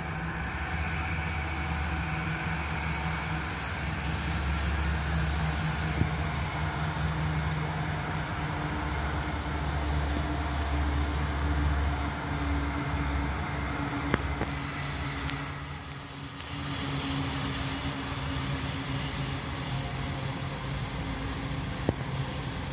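CSX freight train passing, with a steady low diesel locomotive engine drone over the rumble of the rolling cars and a few sharp clicks.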